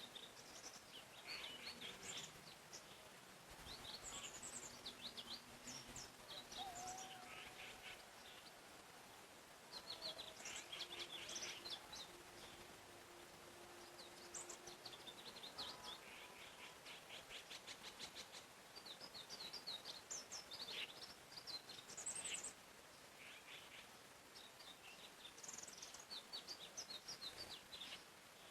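Several songbirds singing and chirping in quick, overlapping phrases, quiet, over a faint steady background hiss of forest ambience.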